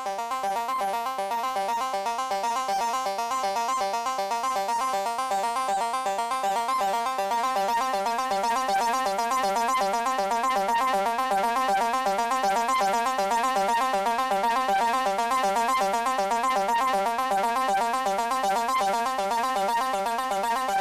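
Arturia MicroFreak synthesizer's Noise Engineering SawX oscillator, a modulated sawtooth, playing a fast, steady arpeggio. A cycling envelope modulates its gain stage, and an LFO sweeps its built-in chorus.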